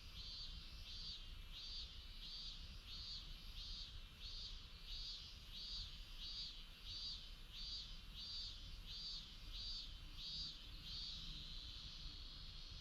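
An insect chirping in a steady rhythm, about one and a half high chirps a second, that stops about eleven seconds in, over a faint low outdoor rumble.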